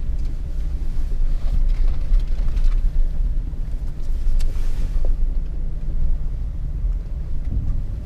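Low, steady rumble of a Jeep crawling over a rocky, muddy off-road trail, heard from inside the cabin, with scattered knocks and thumps as it bumps over the ground.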